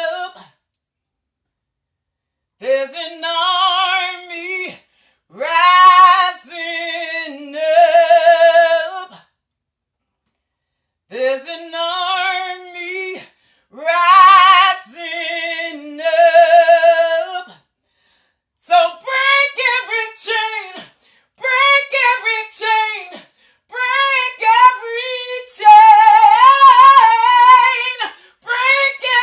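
A woman singing a gospel song unaccompanied, in long held phrases with a wavering vibrato, broken by short pauses for breath.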